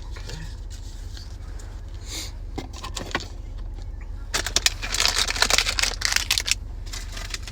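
A trading-card pack wrapper being torn open and crinkled: a few scattered crinkles, then a loud dense run of crackling for about two seconds past the middle, over a low steady hum.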